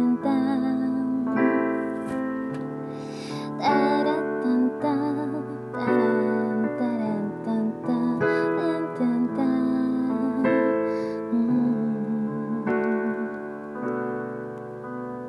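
Solo piano playing slow sustained chords in the instrumental close of a gentle song, the chords changing every second or two and easing off a little near the end.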